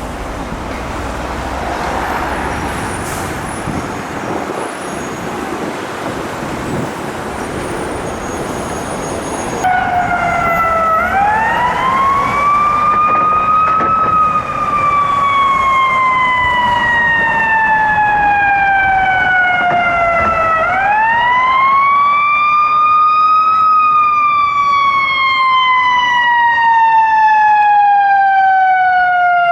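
Street traffic noise, then about a third of the way in a Chicago Fire Department ambulance's electronic siren starts wailing: each cycle rises quickly and falls slowly over about ten seconds. A second siren sweeping faster joins near the end.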